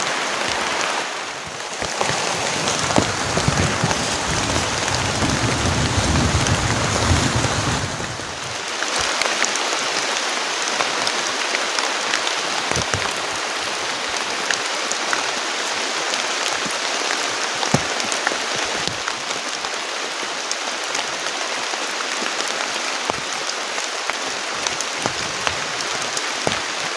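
Heavy rain falling steadily, a dense hiss flecked with sharp drop hits. From about two to eight seconds in, a low rumble sits underneath.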